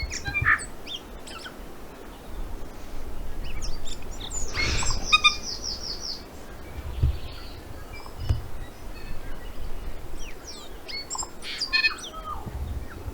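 Wild birds chirping and calling in bush, with a quick run of about ten high notes in the middle and scattered short chirps before and after. Low rumbles of wind or handling on the microphone underneath.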